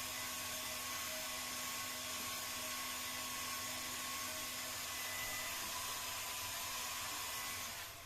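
Hot air gun blowing steadily with a faint whine from its fan, heating the glued PVC to loosen it; it is switched off near the end.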